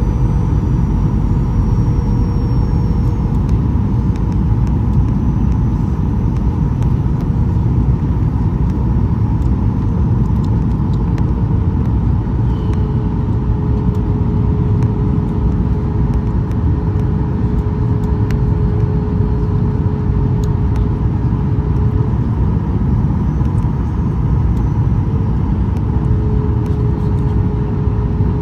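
Cabin noise of a Boeing 737-800 in flight, heard from a seat over the CFM56-7B engine. It is a steady, loud roar of airflow and engine, with two faint steady hums, the lower of which shifts slightly in pitch a few times.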